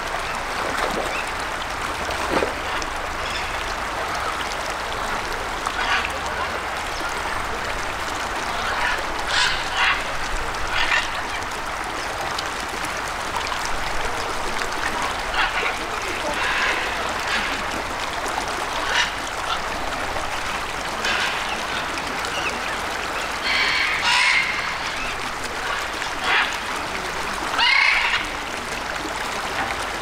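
Birds calling: short harsh squawks and honks at irregular intervals, every second or few seconds, over a steady noisy background, with the loudest calls late on.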